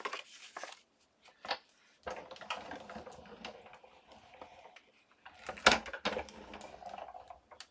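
A few plastic clacks as the cutting plates and shim are handled, then a Sizzix Big Shot die-cutting machine being hand-cranked: a steady rolling rumble with scattered clicks as the plate sandwich with the die feeds through the rollers, with one sharp knock late on.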